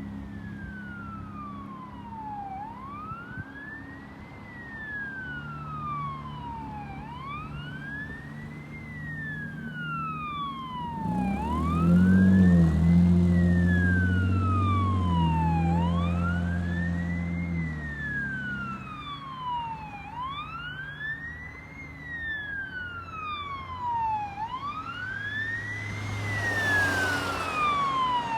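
Fire engine's siren in wail mode, a slow rise and fall repeating about every four and a half seconds. A deep, steady low drone grows in from about eleven seconds in and is the loudest part until about eighteen seconds, and a rushing hiss swells near the end.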